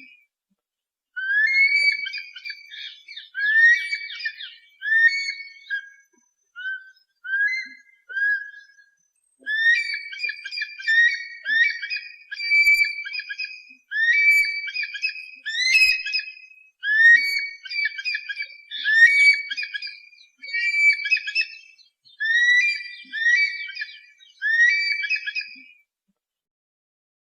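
Eagle calls: a long series of short, high whistled screams, roughly one to two a second, thinning to a few quieter, lower calls about six to nine seconds in and stopping near the end.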